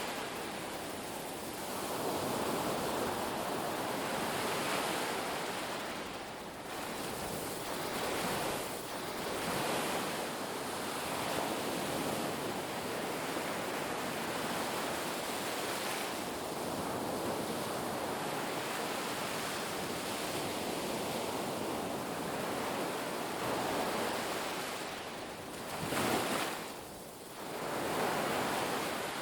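Ocean waves breaking and washing up the beach, a continuous surf that swells and ebbs every few seconds, with one stronger surge near the end.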